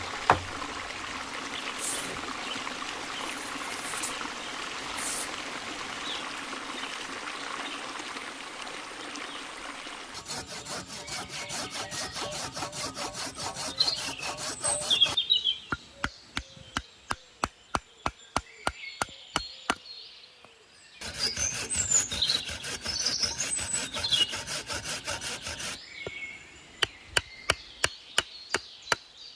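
Wood being worked with a hand tool. There are runs of quick rhythmic sawing strokes, and in between them sharp separate knocks about two or three a second. Birds chirp now and then in the background.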